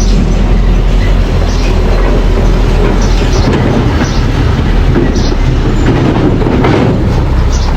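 Mini crawler bulldozer running, with a steady engine rumble and short high squeaks from the tracks every second or two.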